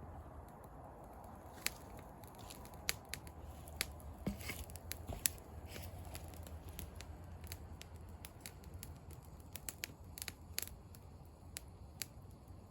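Wood fire crackling, with irregular sharp pops and snaps scattered throughout.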